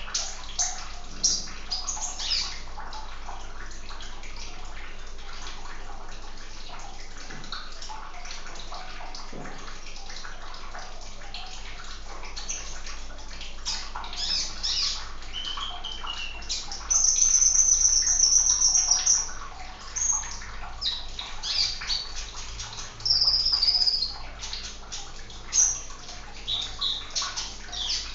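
Steady sound of running water with a small songbird, a sunbird, chirping over it in short high-pitched calls. The calls stop for several seconds after the start, then come back, with one long, loud, high trill about 17 seconds in.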